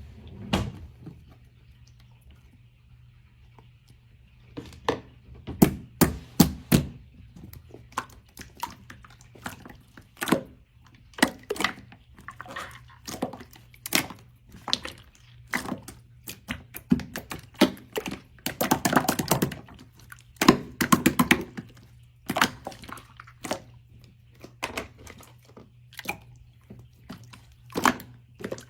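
Slime being squeezed, poked and pressed by hand, making a string of sharp pops and wet clicks at irregular intervals, with a denser run of squishing about two-thirds of the way through. A faint steady hum lies underneath.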